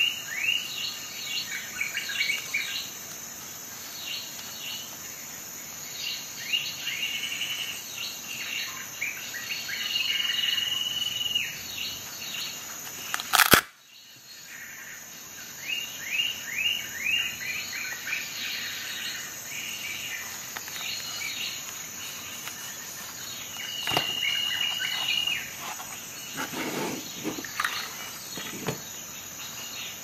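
Birds chirping: a busy run of quick falling chirps with two longer held notes, over a steady high hiss. A single sharp click about halfway through.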